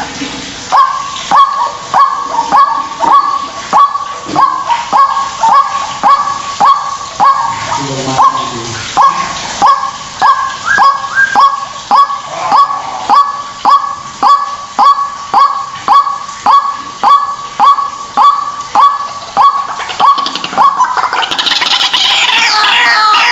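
White-breasted waterhen (ruak-ruak) calling: a short, honking 'kwak' note repeated steadily about one and a half times a second. Near the end it breaks into a louder, denser, higher-pitched chatter. This is the lure call used to draw the birds in.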